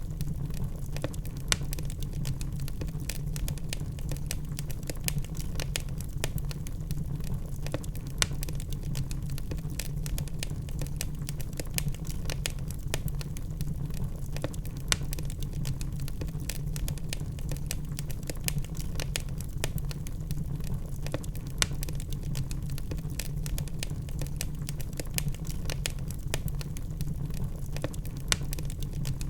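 Wood fire burning in a fireplace: a steady low rumble of the flames with frequent irregular pops and crackles from the burning logs.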